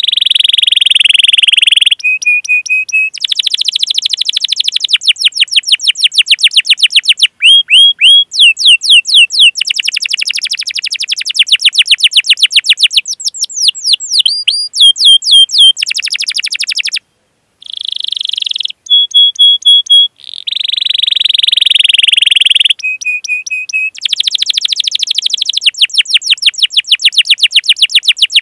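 Canary singing a long song of fast trills, rolls and rapidly repeated chirps, with a few held steady notes between phrases and one brief break about two-thirds of the way through.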